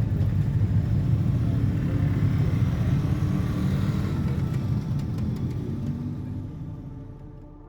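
Motorcycle engine running with a steady low rumble, fading away over the last two or three seconds.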